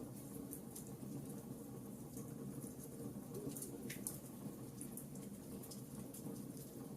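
Log fire burning in a fireplace: a steady low rumble of flames with frequent small crackles and snaps, and one sharper pop about four seconds in.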